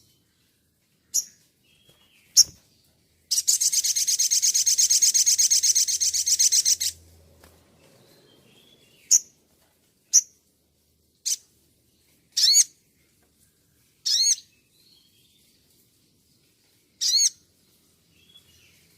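A songbird singing: short, sharp, very high chips spaced a second or so apart, a loud rapid trill of about three and a half seconds near the start, and a few quick looping notes in the second half.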